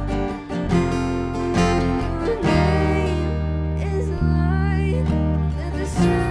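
Worship band playing an instrumental passage between sung lines: acoustic guitar strumming over sustained low chords.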